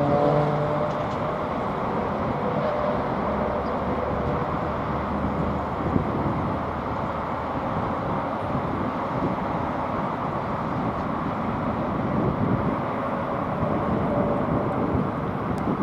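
Jet aircraft engines heard outdoors as a steady, even roar.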